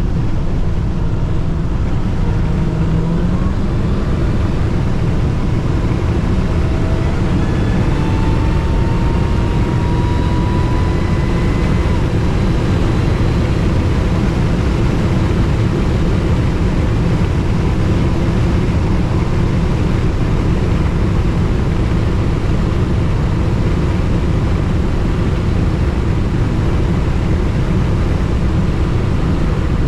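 Car driving at speed, heard from inside: a steady low engine and road rumble, with a faint whine rising in pitch a few times in the first half.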